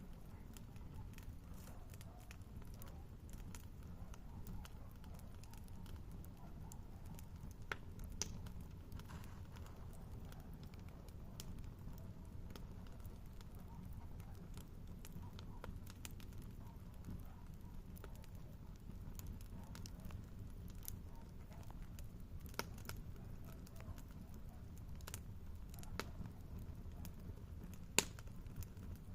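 Wood campfire crackling: scattered sharp pops and snaps over a low, steady rumble, with the loudest pop near the end.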